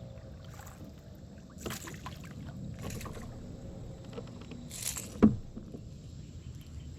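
Handling noises aboard a kayak on the water: a low steady rumble with a few short hissing rustles, and one sharp knock about five seconds in.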